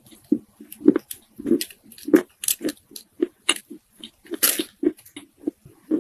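Soft chunks of Chinese loess clay being bitten and chewed close to the microphone: a quick run of soft crunches, about two or three a second, with a louder crackling crunch about four and a half seconds in.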